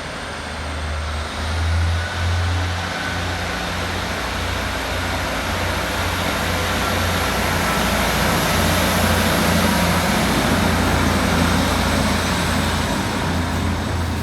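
Class 156 Sprinter diesel multiple unit pulling out, its Cummins diesel engines running under power over a steady low hum, growing louder over the first several seconds and then holding.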